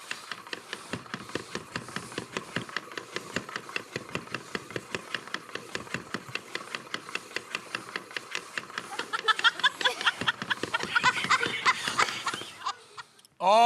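Rapid, even ticking at about five clicks a second, with stifled snickering laughter from about nine seconds in.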